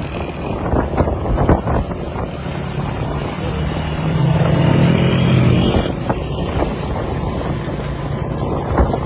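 Traffic on a road: a vehicle's engine and road noise running steadily, with wind on the microphone. An engine note grows louder about four seconds in and falls away about two seconds later.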